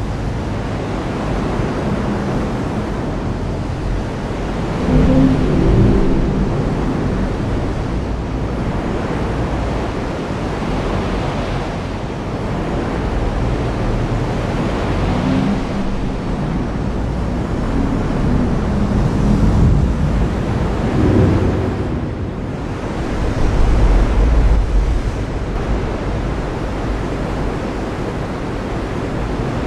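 Heavy rain falling steadily. Low rumbles swell up a few times, about five seconds in and again around the middle and later.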